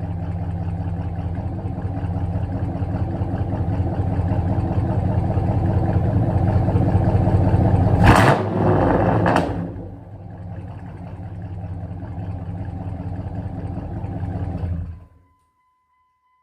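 Dodge Ram 1500 engine idling cold through a true-dual exhaust with a Cherry Bomb Extreme muffler and 2¼-inch pipes, steady and slowly getting louder. About eight seconds in, a loud noisy burst lasts about a second and a half. The idle then goes on more softly and stops abruptly near the end.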